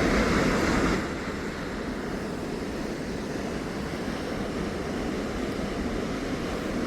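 The Huka Falls rapids: a steady wash of rushing water that drops in level about a second in.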